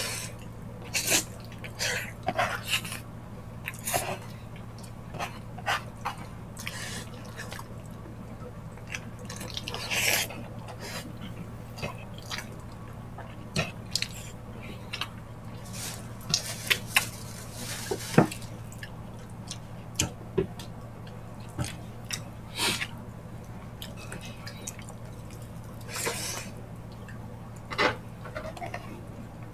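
Close-miked wet chewing and lip-smacking of people eating ox-feet balbacua stew by hand: irregular short smacks and clicks, some louder ones about ten, seventeen and twenty-two seconds in, over a steady low hum.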